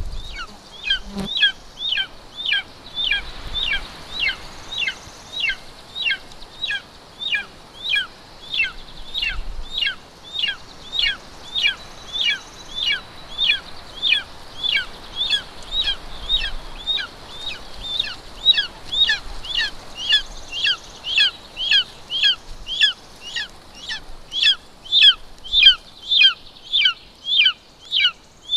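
Golden eagle chick calling to beg for food while it is being fed: a steady run of thin, high, down-slurred cheeps, about two a second.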